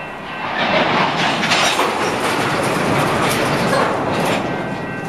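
Metra commuter train of bilevel cars rolling into a station, its wheels clacking over the rail joints. The sound swells about a second in and eases off near the end as the train slows.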